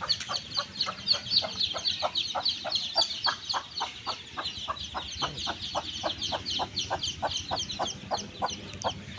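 A brood of two-day-old chicks peeping continuously in many high, quick cheeps, over a mother hen clucking steadily at about four clucks a second.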